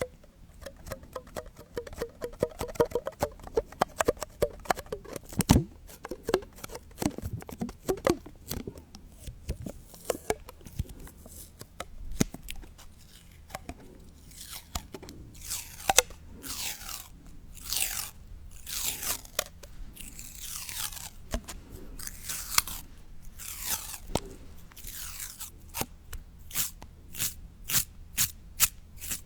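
Close-up crunching and crackling: a dense run of sharp clicks, and from about halfway on, repeated scratchy strokes that fall in pitch.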